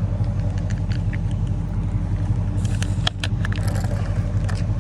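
V8 engine idling steadily, with a few sharp clicks and knocks about three seconds in.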